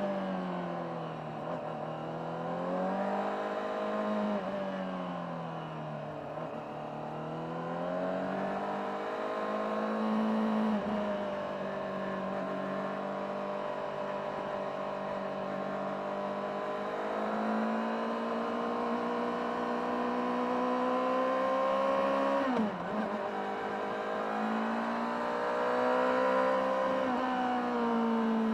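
Honda CBR600RR's inline-four engine on a ride, heard through its stock exhaust. The engine note falls and climbs several times in the first ten seconds as the throttle is rolled off and on, then holds fairly steady. It dips sharply and picks up again about two-thirds of the way through, and climbs once more near the end.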